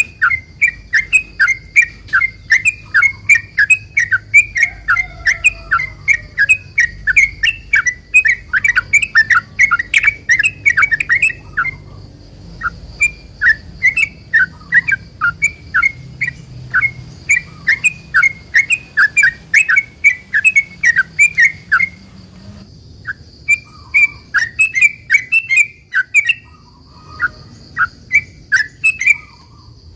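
Yellow-vented bulbul (trucukan) singing a long rapid run of chirps, about four a second, pausing briefly a few times.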